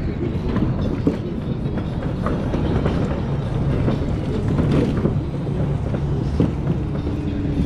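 Steady low rumble and road noise from riding an electric unicycle, with a faint steady hum in the last second or so.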